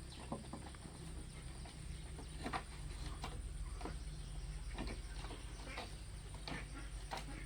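Irregular sharp knocks and clicks, about seven of them a second or so apart, over a low steady hum.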